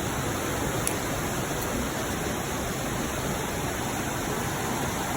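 Steady rushing of flowing creek water and waterfalls, running high after heavy rain.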